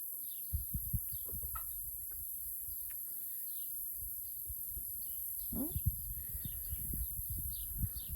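Young chickens peeping, a string of short falling chirps scattered through, with one brief rising call about five and a half seconds in. Low rumbling bumps on the microphone run underneath.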